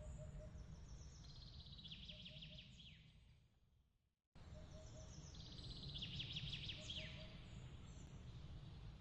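A songbird's fast trilled phrase that ends in a falling sweep, heard twice about four seconds apart over a faint steady low rumble. Between the two phrases the sound fades away to silence and cuts back in suddenly, the seam of a looped ambience recording.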